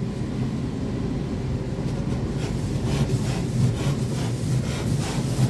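Automatic car wash running, with a steady low hum of machinery and water jets spattering against the car, heard from inside the cabin.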